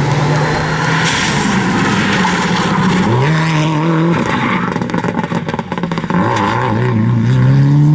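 Rally car engine at high revs, its pitch jumping up about three seconds in, dropping a second later, then climbing steadily through the last two seconds as it accelerates. A broad rushing noise swells around one to two seconds in.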